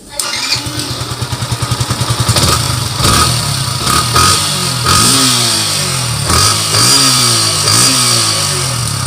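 Yamaha FZ V3's 149 cc single-cylinder engine heard through its exhaust: idling with a fast, even pulse, then revved several times from about three seconds in, the pitch rising and falling with each throttle blip.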